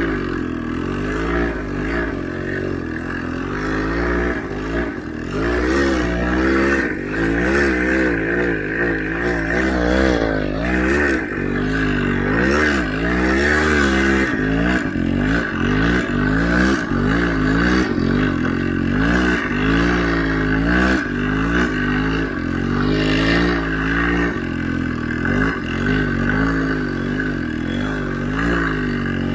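Motorcycle engine revving hard and unevenly while riding through deep snow, its pitch rising and falling over and over as the throttle is worked. Clattering and scraping run through it.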